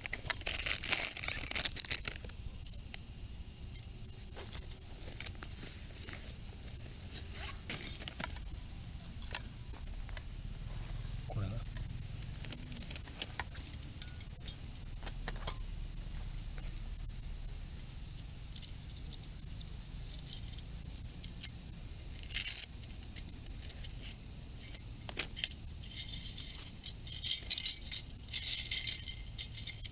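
A steady, high-pitched chorus of chirring insects such as crickets, with scattered light clicks and a few knocks, more of them near the end.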